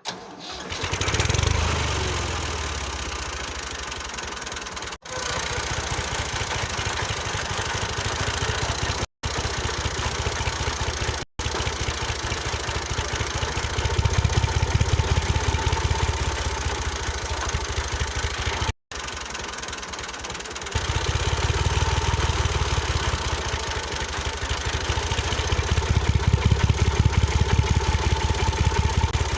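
A small engine running steadily with a rapid, even pulse, getting louder and quieter from one stretch to the next, and cutting out abruptly for an instant several times.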